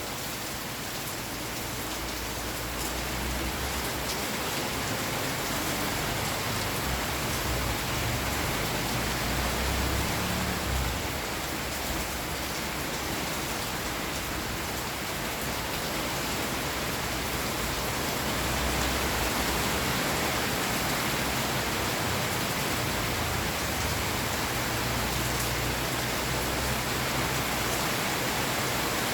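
Steady rain falling, an even hiss of drops, with a low rumble coming and going underneath.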